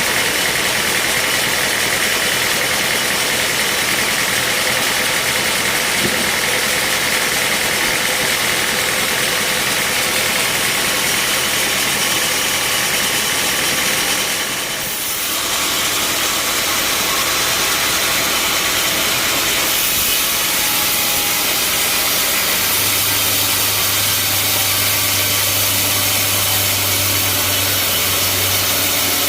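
Band sawmill running with a loud, steady mechanical noise. It dips briefly about halfway through, and a low steady hum joins from about three-quarters of the way in.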